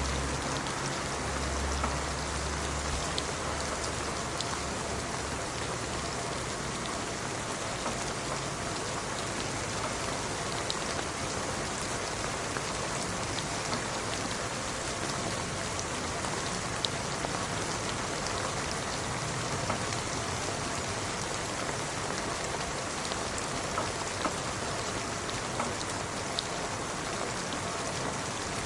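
Steady rain falling, an even hiss dotted with the small ticks of single drops striking a surface. A low rumble sits under it during the first three seconds.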